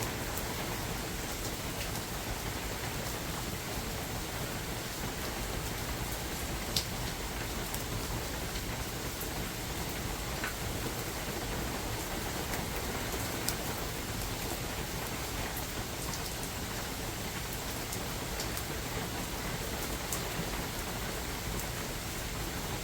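Steady rain falling in a forest, an even hiss with scattered close raindrops ticking; two drops stand out, about a third of the way in and again a little past halfway.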